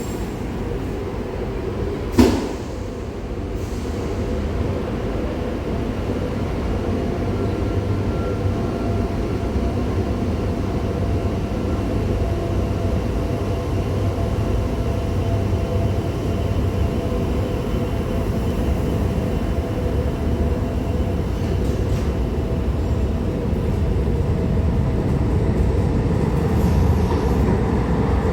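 Old Tyne and Wear Metrocar pulling away from the platform: a steady low rumble with a faint motor whine, growing slightly louder. A single sharp knock sounds about two seconds in.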